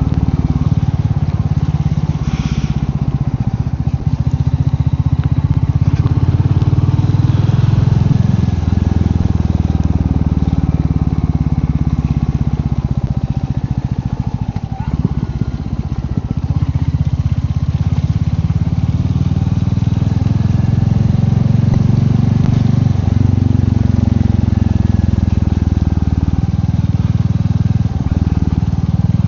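Royal Enfield Meteor 350's single-cylinder engine running as the motorcycle is ridden along, easing off about halfway through and pulling up again a few seconds later.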